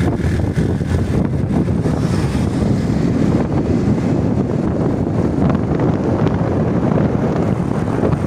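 Wind rushing over the microphone on a moving motorcycle, with the bike's running noise underneath: a steady, loud low rumble.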